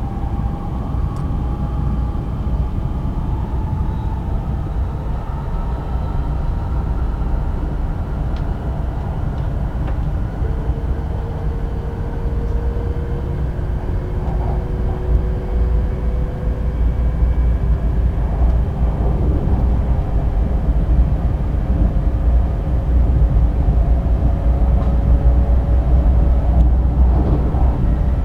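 Cabin noise inside a JR Kyushu 800 series Shinkansen car running at speed: a heavy low rumble with faint whining tones that climb slowly in pitch and grow a little louder as the train accelerates after departure.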